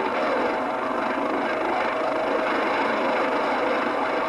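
CB radio receiver hissing steadily with its squelch open, carrying only band noise and a faint steady tone.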